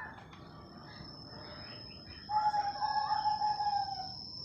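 A bird gives one long call of about a second and a half, starting a little past halfway through, over a steady high thin whine.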